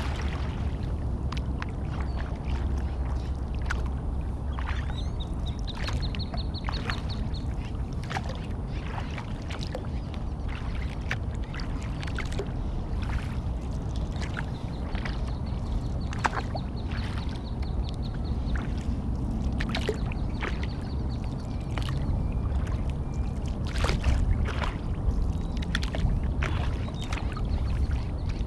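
Sea kayak on open water: irregular small water splashes and drips, as from a paddle, over a steady low rumble. A high, rapid ticking trill comes and goes in the background three times.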